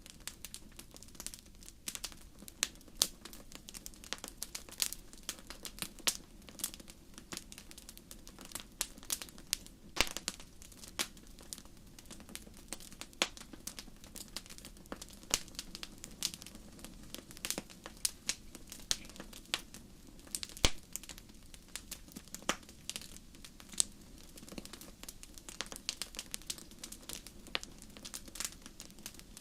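Fire crackling: a steady run of irregular sharp pops and snaps, a few louder than the rest, over a low steady rumble.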